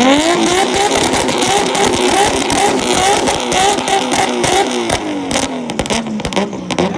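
Nissan Skyline R32's engine revved hard against a 2-step launch limiter, the revs bouncing about twice a second with sharp crackling pops from the exhaust. The revs drop off near the end.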